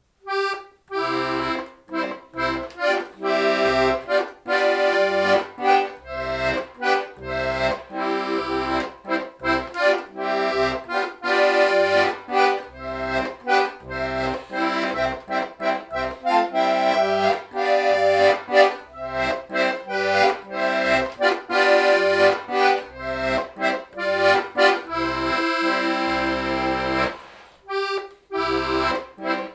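Club IIB diatonic button accordion playing a folk tune, melody over an evenly paced bass-and-chord accompaniment. The playing starts about half a second in, and there is a brief pause near the end.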